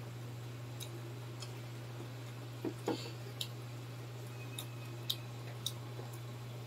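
Close-miked eating of crispy fried pork intestine and pork lung: scattered wet mouth clicks and chewing, with a few louder clicks about three seconds in. A steady low hum runs underneath.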